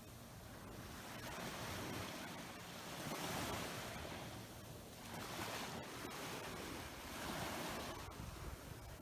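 Ocean surf breaking on a beach, a steady wash of waves that swells louder every few seconds as each wave breaks.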